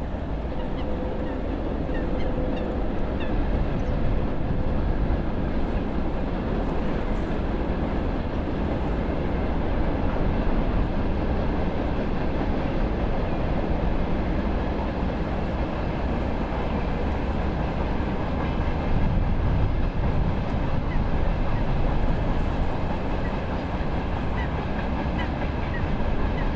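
A train passing along the railway, a steady, sustained rumble of the wagons on the track, with birds chirping faintly over it.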